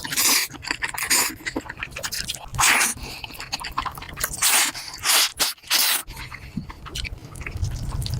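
Close-miked slurping of noodles in about six short hissing slurps, with small wet mouth clicks between them.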